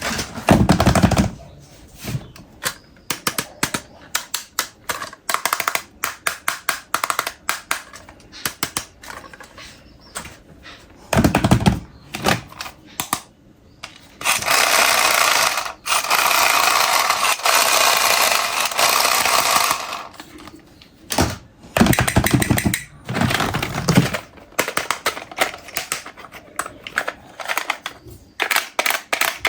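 Plastic toys and packaging being handled: rapid, irregular clicking and clattering, a few heavier knocks, and a steady rushing noise lasting several seconds in the middle.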